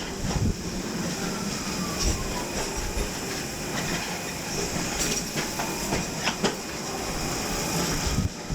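Santa Teresa electric tram running on its rails: steady rumble of the car with wheels knocking over rail joints a few times, and a faint falling whine near the start.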